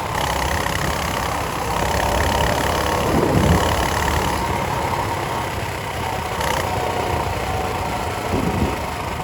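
Motorcycle engine running steadily at low speed, with two brief low surges, one about three and a half seconds in and one near the end.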